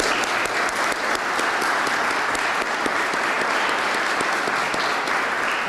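Audience in a large hall applauding, a dense steady clapping that starts just before and fades near the end.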